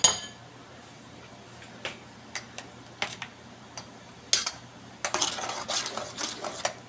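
Spoon knocking against a cooking pot while the asado sauce is stirred: a few separate clinks, then a stretch of quick scraping and clattering about five seconds in.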